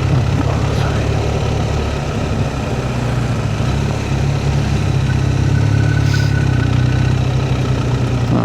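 Motorcycle engine running steadily at low revs, dipping slightly about two and a half seconds in before settling again.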